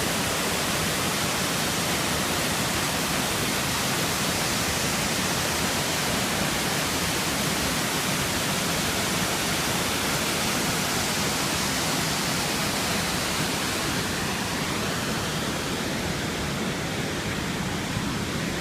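A large waterfall rushing: a steady, unbroken roar of falling water.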